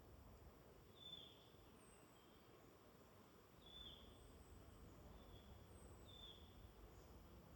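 Faint woodland birdsong: one bird repeats short, high notes that slur downward every second or two, with fainter, higher notes between them, over a low background hum.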